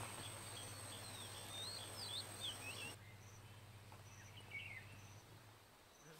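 Faint outdoor ambience with a few small bird chirps: a run of short twittering notes about a second and a half in, and another brief chirp about four and a half seconds in, over a low steady hum that fades out near the end.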